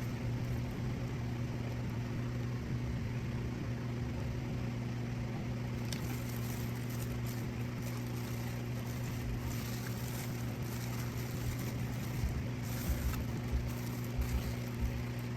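A steady low mechanical hum, with soft intermittent clicks and light knocks in the second half.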